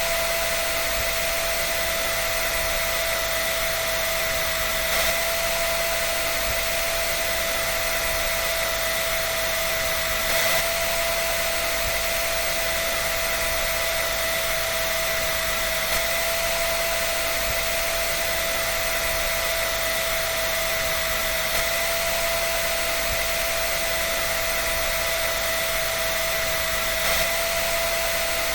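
Electric hair dryer running steadily: an even blowing whir with a constant high whine, and a faint slight swell about every five and a half seconds.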